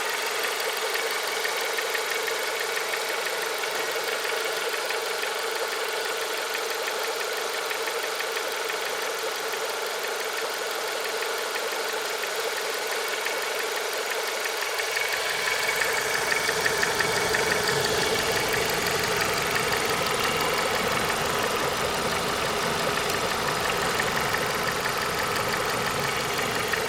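Renault Megane 2's K4M 1.6 16-valve petrol engine idling with a fast, chirring tick from under the bonnet, the 'grasshopper' noise whose cause is unknown. About halfway through, a deeper rumble joins and the sound gets a little louder.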